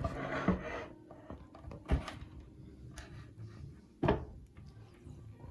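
A few short wooden knocks and clunks of a mahogany table and its folding stand being handled and fitted. The loudest knock comes about four seconds in.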